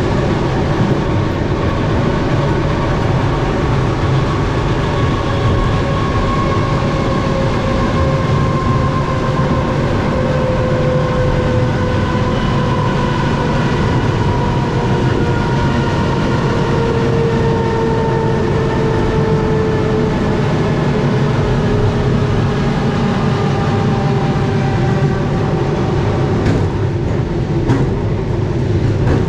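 Suburban passenger train running along the line, heard from inside the carriage: a steady rumble of wheels on rails under a whine that slowly falls in pitch, with a few sharp wheel clacks near the end.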